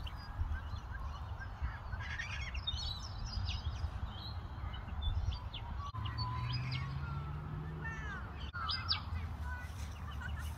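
Several birds calling, with short chirps and whistled glides scattered throughout, over a steady low rumble and a faint hum that rises slowly from about six seconds in.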